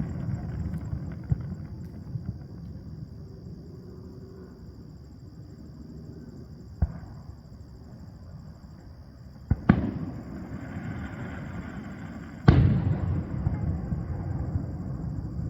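Fireworks display: aerial shells bursting with sharp booms, a small one about seven seconds in, a close pair about nine and a half seconds in, and the loudest about twelve and a half seconds in. Each boom is followed by a rumbling, crackling tail.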